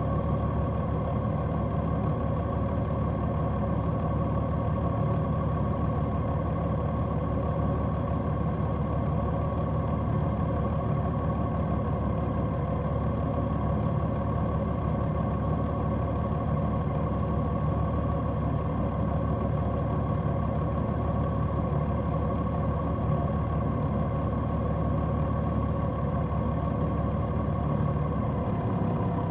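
Large motorcycle engine running steadily at constant revs, an even drone with no revving or gear changes until a slight shift in pitch near the end.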